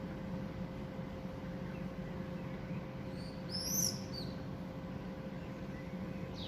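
A small bird's short, high chirp about halfway through, over a steady low hum and hiss.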